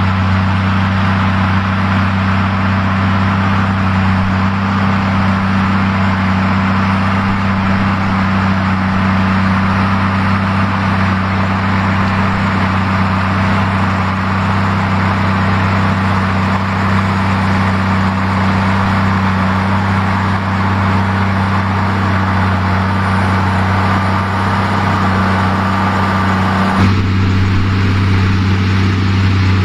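New Holland TG285 tractor's diesel engine running at a steady speed with a constant low hum. About 27 seconds in the sound changes abruptly, the low hum growing stronger and the higher noise dropping away.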